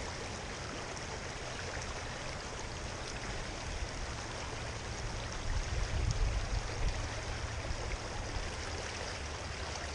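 Creek water running steadily over the stream bed, with a low rumble swelling for a couple of seconds in the middle.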